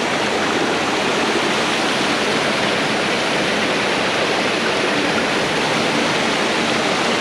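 Mountain creek rushing over rocks at a stream crossing: a steady, even rush of water.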